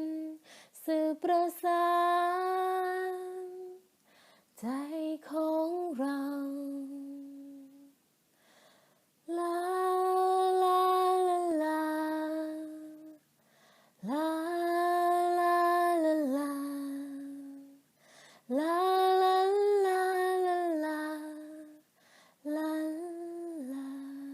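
A woman singing alone, unaccompanied, in long held notes of a few seconds each, each dipping slightly in pitch at its end, with short breaths between phrases.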